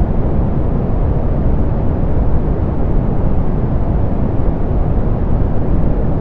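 Steady synthetic pink noise, softened so that its weight sits in the lows and the highs roll off, giving an even, deep hiss with no changes or events.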